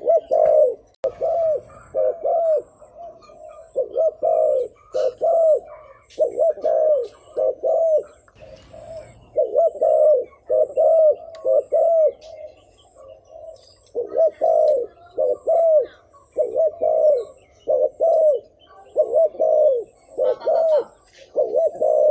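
Spotted dove cooing: quick runs of two or three short notes, each rising then falling in pitch, repeated over and over with brief pauses between runs.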